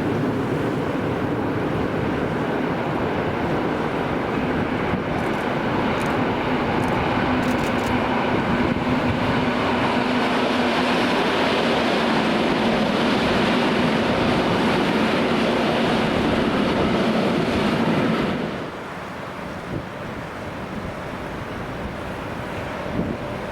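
An electric train running past close by: a steady rushing and rumble with a humming tone, growing louder toward the middle, then dropping away sharply about eighteen seconds in to a quieter background.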